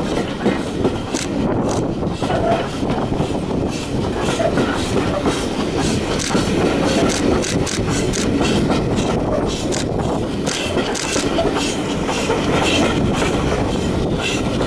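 Steam-hauled railway carriage running along the line, its wheels rumbling steadily with repeated clicks over the rail joints.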